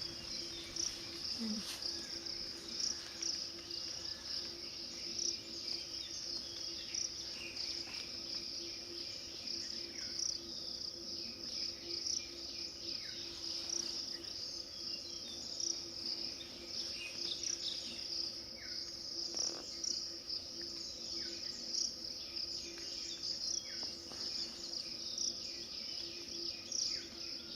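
Steady, high-pitched chirring of insects, pulsing rapidly and without a break, with a few short faint chirps now and then.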